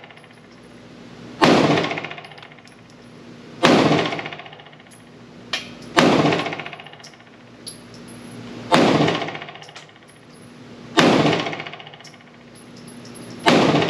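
Six pistol shots from a PSA Dagger 9mm compact, fired slowly about two to two and a half seconds apart, each with a long echoing tail in the indoor range. The pistol is feeding from a Glock magazine.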